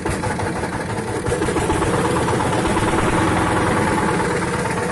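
Hand tractor engine powering a village-made truck, running steadily with a rapid, even chugging.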